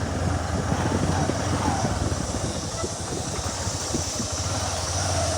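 Motorcycle running steadily while being ridden, its low engine hum mixed with road noise.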